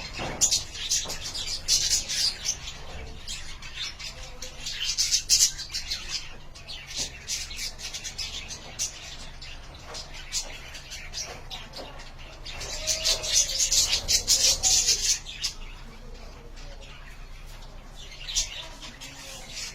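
Budgerigars chirping and chattering in bouts, with the loudest bouts around the start, about five seconds in, and from about twelve to fifteen seconds in, over a steady low hum.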